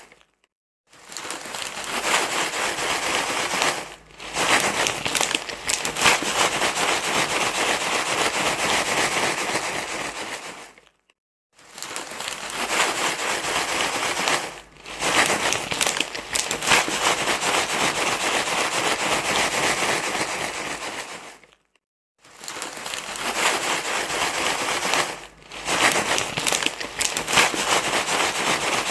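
Loud, steady crinkling rustle, like crinkly material being crumpled and rustled in the hand, meant to soothe a crying baby. It comes in stretches of several seconds, with a brief dip a few seconds after each short silence, and the silences fall about every eleven seconds as the recording repeats.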